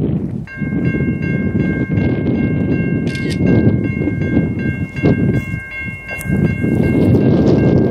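A train rumbling past. From about half a second in, a steady ringing warning sound of several high tones sounds over it and keeps going.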